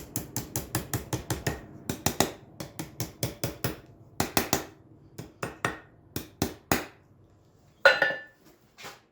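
Hammer blows on a railroad spike held over the edge of an anvil, bending it to a right angle: a quick even run of ringing strikes, about four to five a second, then slower, spaced blows that stop about seven seconds in. One louder ringing clang follows about a second later.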